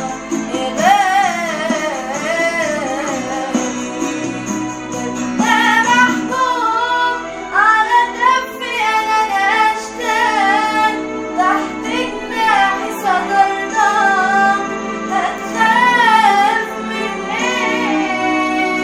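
A woman singing an Egyptian Arabic Christian hymn, with wavering vibrato on held notes, over a steady sustained instrumental backing.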